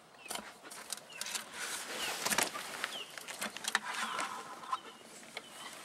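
Scattered clicks and rustling of hands handling a gizzard shad and the cast net it was caught in, with a few short bird chirps in the background.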